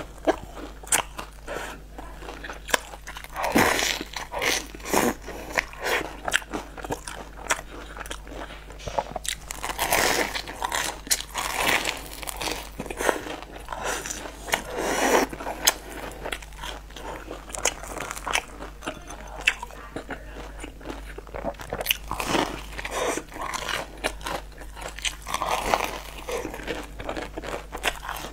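Close-up biting and chewing of a crisp fried dough pastry: repeated crunches and wet mouth clicks throughout.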